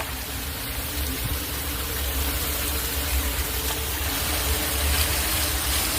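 Floodwater rushing steadily into a street storm drain, its grate freshly cleared of the garbage that had clogged it, with a deep rumble underneath.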